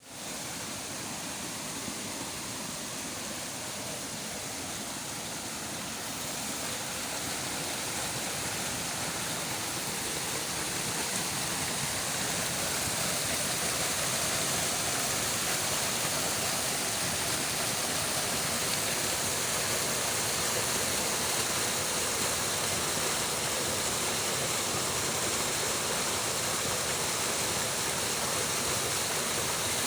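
Waterfall: a steady noise of falling water, growing a little louder over the first dozen seconds or so.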